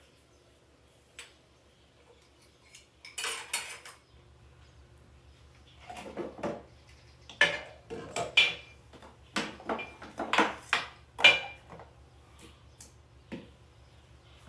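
Dishes and cutlery being handled: a brief rustle about three seconds in, then a run of clinks and knocks, several with a short ringing tone.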